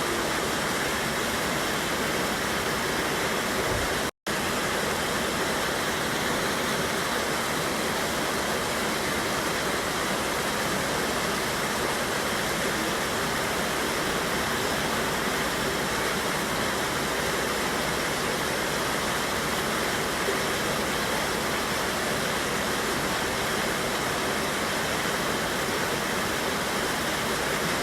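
A mountain river rushing steadily over a small waterfall and rapids, with constant full water noise. The sound cuts out for an instant about four seconds in.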